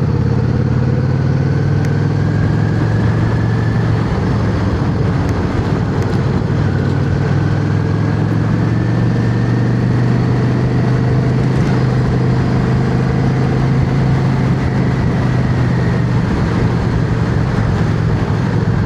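Yamaha XVS650's air-cooled V-twin engine running at a steady pace while riding on the road, over a constant road and wind rush. A faint high whistle drifts slowly up and down in pitch.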